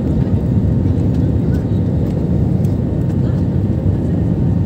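Steady low rumble of an airliner's engines and rushing air heard inside the cabin while the plane comes in to land.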